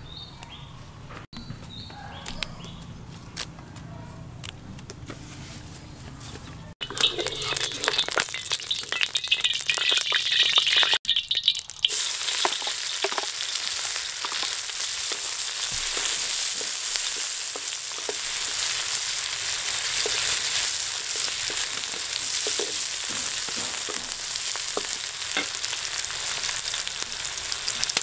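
Hot oil in a wok sizzling as sliced lemongrass, garlic and chilies stir-fry, with a wooden spatula stirring and scraping against the pan. The first several seconds are much quieter; then the sizzling starts abruptly and runs on steadily, hissing strongly.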